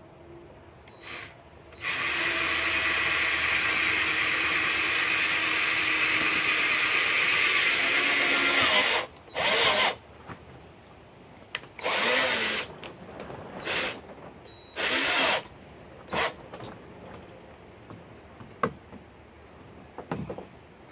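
Cordless drill-driver driving screws into the plastic of a barrel canoe: one long run of about seven seconds, then five short bursts, some winding down as the trigger is let go.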